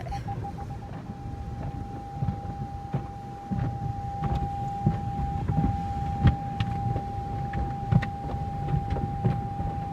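Automatic car-wash cloth brushes slapping and thumping against the car over a low mechanical rumble, heard from inside the cabin. Over it an electronic beep sounds: quick beeps in the first second, then one held tone.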